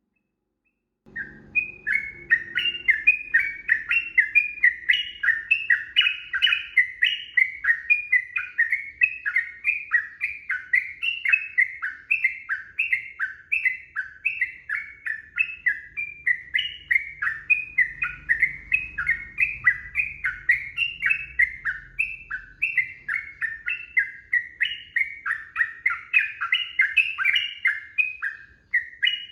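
Sooty-headed bulbul (trucukan) in full song, a long unbroken run of short, quick chattering notes at about three a second, starting about a second in.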